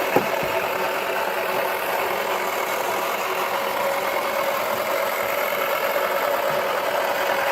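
Toy washing machine's small motor running steadily with a constant hum, and one short knock just after the start.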